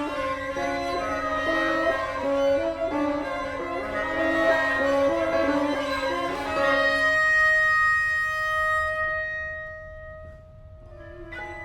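Contemporary chamber ensemble music for solo bassoon with flute, clarinet, harp, piano, violin, viola and cello, bowed strings prominent. Quick shifting notes give way about seven seconds in to a few long held tones that fade, and new sharply struck notes enter near the end.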